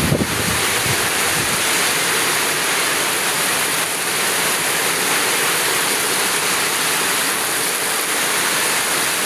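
Heavy rain falling in a steady, dense hiss. A brief low rumble sounds at the very start and fades within about a second and a half.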